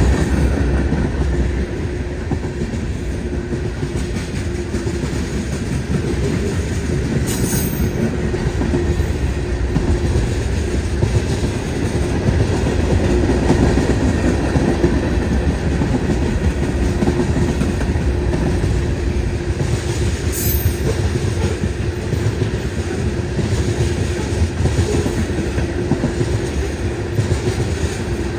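Canadian National freight train's cars rolling past, a steady rumble with wheels clicking over the rail joints and a faint steady wheel squeal. Brief high-pitched squeaks come twice, about 7 and 20 seconds in.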